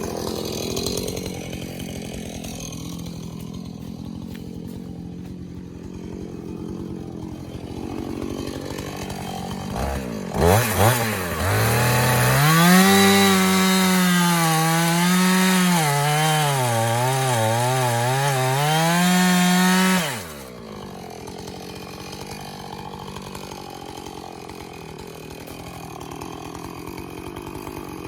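Two-stroke chainsaw idling, revved twice about ten seconds in, then run at full throttle through a log for about eight seconds, its pitch dipping and recovering as the chain bogs under the load of the cut. It then drops suddenly back to idle.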